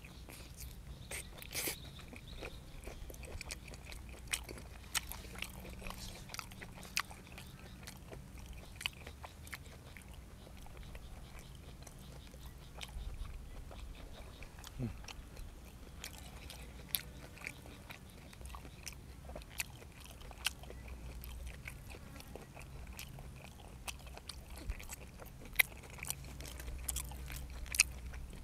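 Close-miked chewing and biting of blanched squid and fresh vegetables: irregular sharp crunches and mouth clicks throughout, the loudest two near the end.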